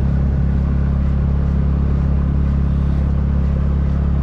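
Motorcycle engine running at a steady speed: a loud, even, low drone that neither rises nor falls.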